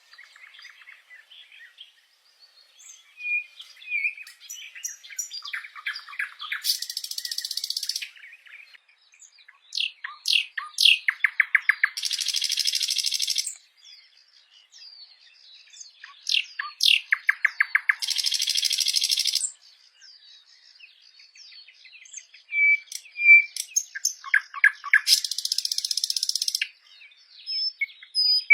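Birdsong: one song phrase repeated about every six seconds, a quick run of notes ending in a long harsh buzz, with scattered short chirps in between.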